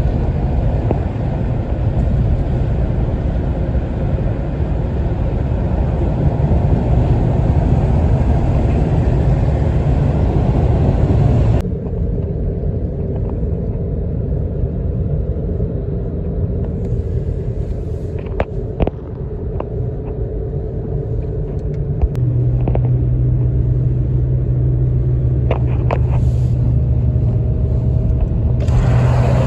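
Heavy highway traffic: a steady low vehicle rumble that changes abruptly twice, about twelve and twenty-two seconds in, with a steady low engine hum added after the second change.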